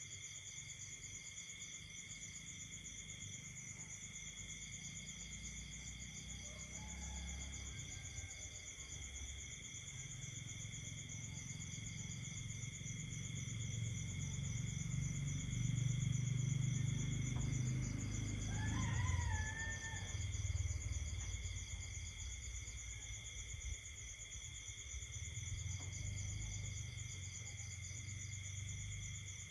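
Night chorus of crickets and other insects: steady trilling at several pitches, some of it pulsing, with a low rumble that swells and fades in the middle and one brief wavering call a little past halfway.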